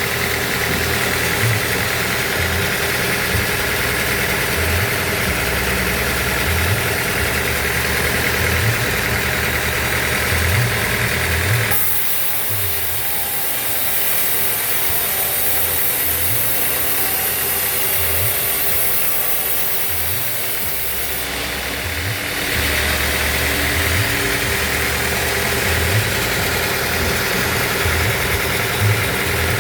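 Band sawmill machinery running steadily with a low pulsing hum. For about ten seconds in the middle the sound changes, with a high hiss coming in over it.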